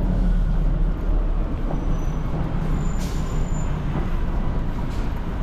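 Road traffic: a steady low rumble of passing vehicles, with a short hiss about three seconds in.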